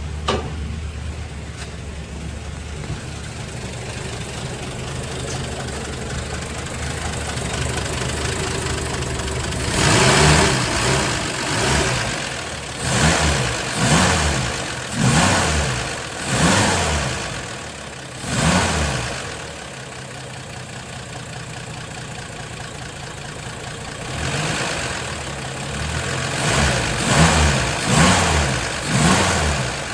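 Plymouth Belvedere's six-cylinder engine running smoothly on freshly installed ignition points. It idles steadily, then is blipped about seven times in a row, each rev rising and falling, settles back to idle, and is blipped again repeatedly near the end. It is hitting on all six, the earlier light-throttle miss gone.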